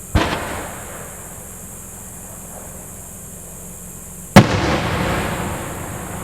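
Two aerial firework shells bursting, about four seconds apart. The second bang is the louder, and each is followed by a rolling rumble as the sound echoes away.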